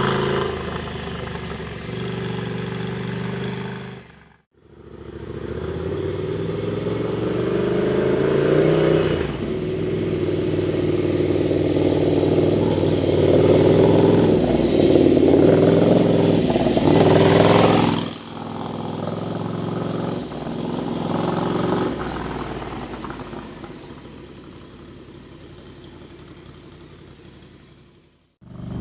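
Ducati Scrambler's air-cooled L-twin engine heard in several ride-by shots, its pitch rising and falling with the throttle. The sound cuts out briefly about four seconds in, builds to its loudest shortly before it drops away abruptly about eighteen seconds in, then fades out near the end.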